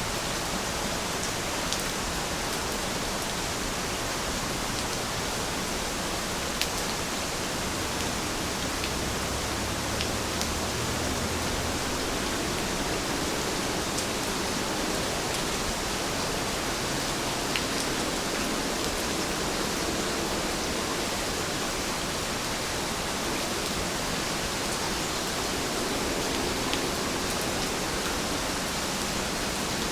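Heavy rain falling steadily, an even hiss with occasional faint drop ticks.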